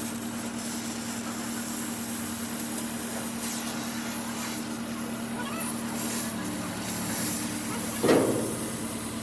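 A steady machine hum, with one short, loud sound about eight seconds in.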